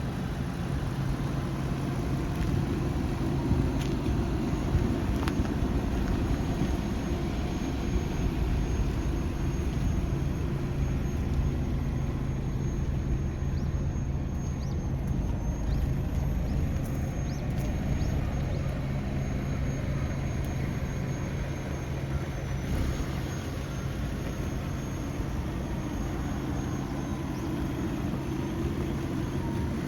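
Volvo B5204T 2.0-litre turbocharged five-cylinder engine from a 2006 S60 running steadily at an even speed, with no revving.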